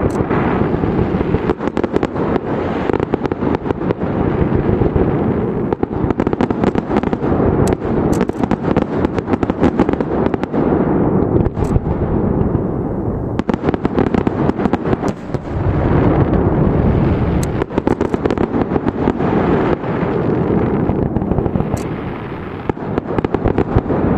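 Aerial fireworks bursting in rapid succession: a dense, continuous crackle of many sharp bangs over a heavy rumble.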